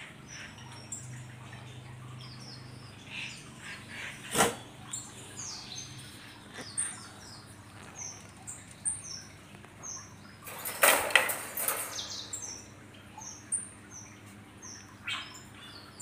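Small birds chirping over and over in short, high notes. A single sharp click comes about four and a half seconds in, and a burst of rattling comes around eleven seconds.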